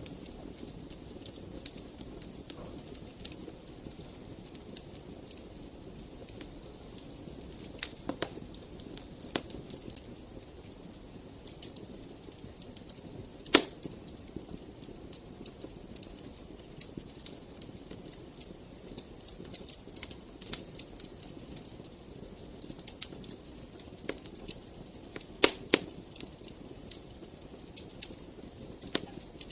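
Wood fire in a fireplace crackling, with a steady low rush of flame and frequent irregular snaps and pops, one loud pop about halfway through and a few more together near the end.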